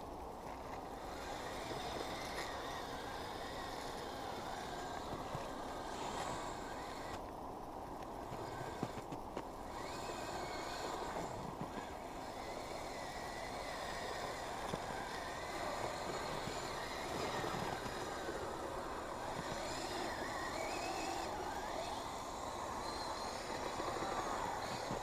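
Radio-controlled Kyosho Blizzard snowcat running through snow, its Traxxas 380 electric motors whining and its tracks churning, the whine rising and falling with the throttle.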